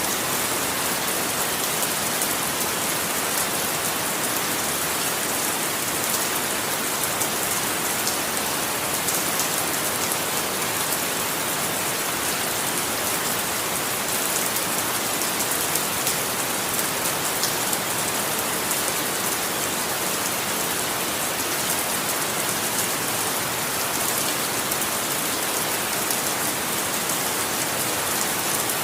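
Steady rain falling, an even hiss of many drops on a surface with no change in intensity.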